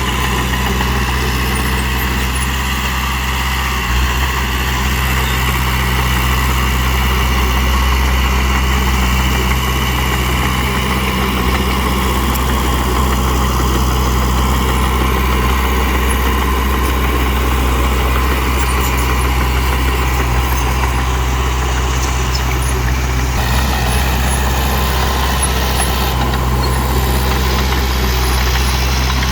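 Heavy dump truck's engine running steadily, a loud low drone with only slight shifts in its note.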